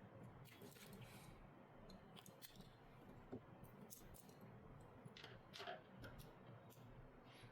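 Faint, scattered small clicks and light scrapes of hand repair tools on a phone during a screen and glass replacement.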